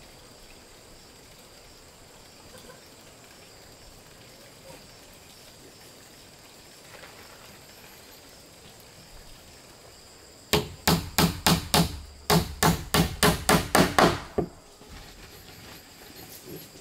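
A hammer driving into wood with about fourteen quick blows, around four a second, in two runs with a short pause between them, starting about ten seconds in. Before that there are only faint steady high tones.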